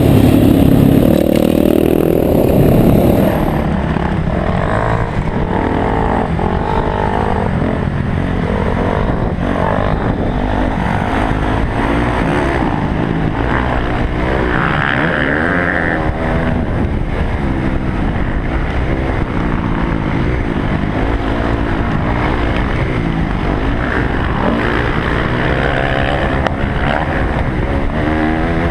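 Dirt bike engine revving up and down as the rider works the throttle, its pitch rising and falling again and again. The sound drops and dulls about three and a half seconds in.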